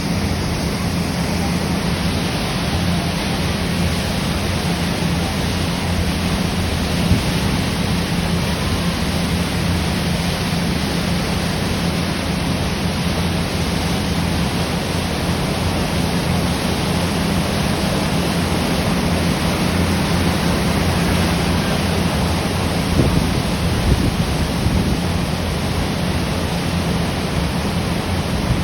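Steady rushing noise over a constant low drone: a lake ferry under way, its engine humming beneath wind and water rush, with a couple of small bumps.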